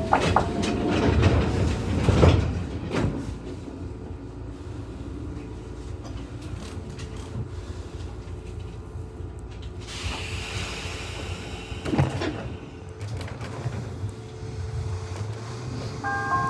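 Nishitetsu 600 series train running, a steady low rumble with several heavy clanks in the first few seconds. About ten seconds in there is a short hiss of air, and just before the end an electronic chime melody starts.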